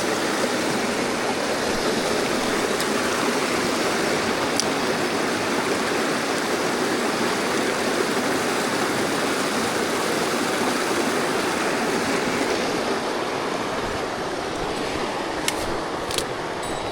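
Mountain stream water rushing over rocks, a steady full rush. Near the end it eases slightly and a couple of sharp clicks sound.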